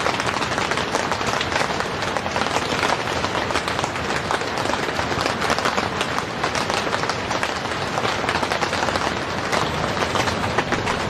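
Heavy rain falling steadily on the tent, heard from inside as a dense, even patter of countless drops.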